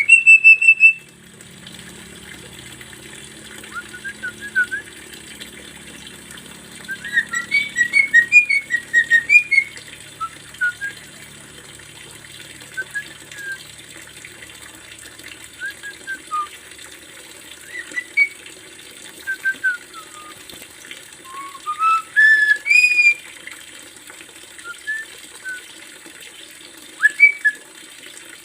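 Javan myna (jalak kebo) singing: short whistled notes and chirps at varied pitches, spaced out with pauses, with two busier runs of rapid notes, one about a quarter of the way in and another about three quarters of the way in.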